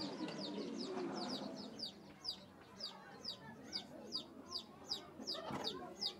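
A bird's short, high chirp repeated steadily, about three falling notes a second, with a fading low background murmur in the first couple of seconds.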